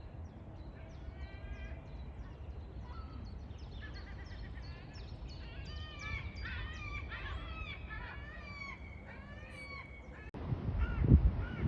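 A flock of birds calling: many short, harsh calls repeated and overlapping, thickest in the middle, over a steady low rumble. Near the end the sound changes suddenly and a few loud low thumps come.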